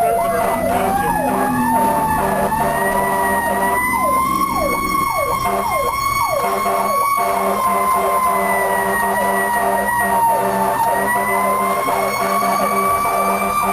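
Fire engine siren wailing, its pitch climbing over the first couple of seconds and then wavering slowly up and down. Many short, quick falling sweeps from a second siren are mixed in, over a steady low drone from the truck's engine.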